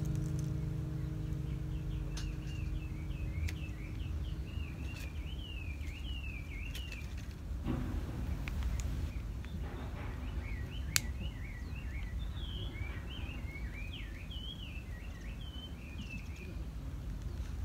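A songbird singing quick, warbling runs of chirps, two long phrases with a pause between, over a steady low outdoor rumble. A single sharp click sounds about eleven seconds in.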